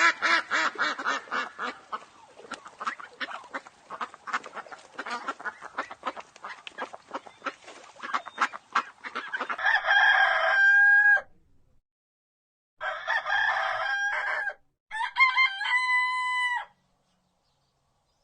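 Chickens clucking in quick, dense bursts for about ten seconds, followed by a rooster crowing three times, each crow a long held call about a second and a half.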